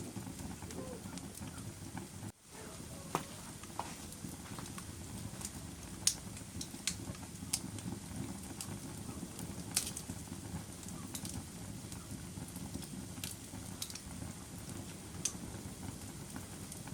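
Wood fire crackling in a fireplace: a steady low rumble of burning with sharp, irregular pops and snaps, the loudest about 6 and 10 seconds in. The sound drops out for an instant a couple of seconds in.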